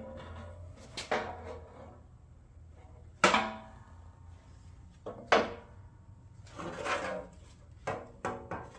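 Irregular sharp knocks and clunks of workshop pieces being handled and set down, about six in all, the loudest about three seconds in.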